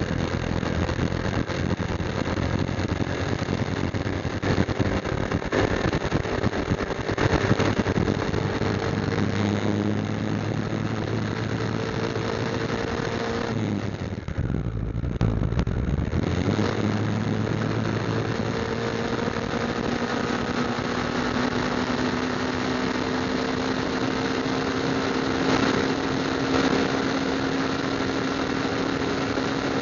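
Motorcycle engine running steadily while riding, its pitch shifting slowly with speed, over constant wind rush. About halfway through, the rushing noise briefly drops away and a low rumble comes up for a couple of seconds.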